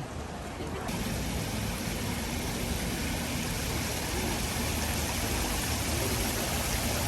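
Steady rushing noise with no distinct events, growing fuller and brighter about a second in.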